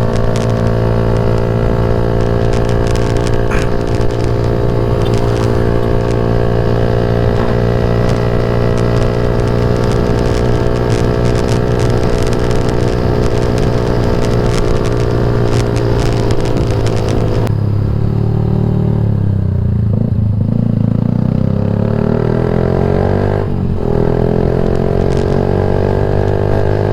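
Yamaha MX King 150's single-cylinder four-stroke engine running through a Rob1 TGA aftermarket exhaust while being ridden. It holds steady revs for most of the time, then the throttle closes about two-thirds of the way in and the pitch drops, before it revs up again, rising near the end.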